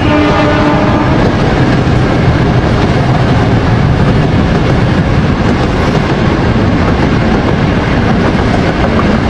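Loud, steady noise of a running train, with a short horn tone during the first second.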